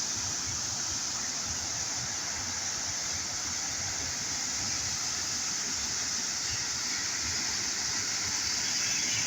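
Steady rush of water, an even noise with no breaks.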